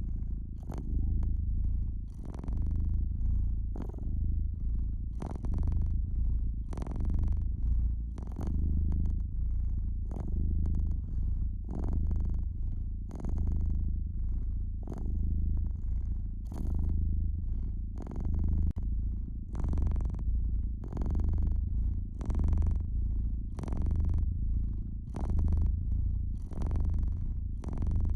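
Domestic cat purring: a low, continuous purr swelling and easing with each breath, about every two seconds. Fireplace crackling over it, with frequent small sharp pops.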